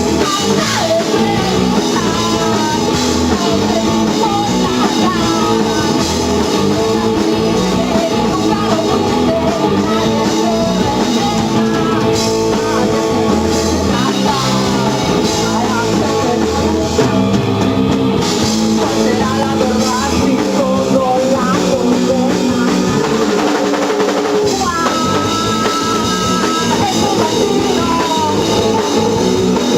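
A rock band playing live, with a singing voice over drum kit and electric guitars.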